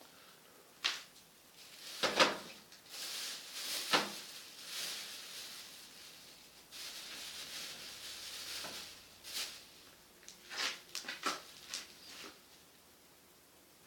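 Irregular knocks and clicks of objects being handled, with two longer stretches of hissing rustle between them.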